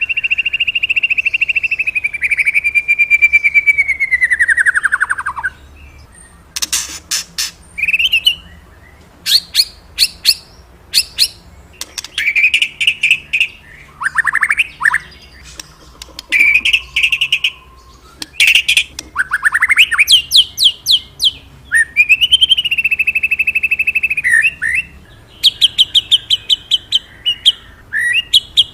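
A murai batu (white-rumped shama) singing a loud, varied song. Long rapid trills are held for several seconds, and between them come sharp quick chips and short whistled phrases, separated by brief pauses.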